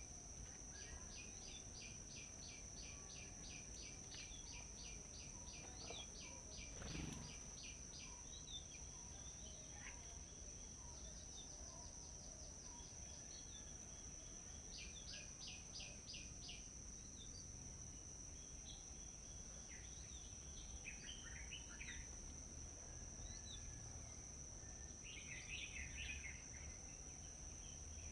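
Small birds calling: long runs of quick, high chirps at about three or four a second, with short bursts of chatter later on, over a steady high-pitched tone and faint low rumble.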